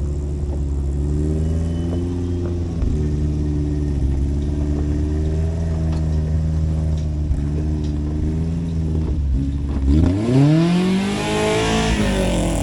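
Off-road 4x4's engine running under steady throttle, then revved hard about ten seconds in, its pitch rising and falling back within two seconds with a rush of noise.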